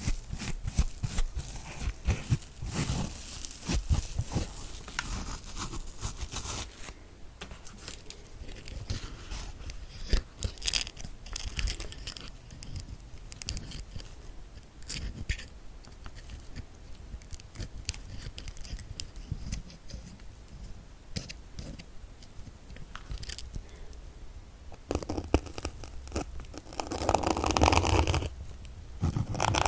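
Needles being pushed into a kitchen dish sponge close to the microphone, making crackly, scratchy pokes and scrapes. The pokes come thick and fast at first, thin out to scattered clicks, and turn to a denser, louder scraping a few seconds before the end.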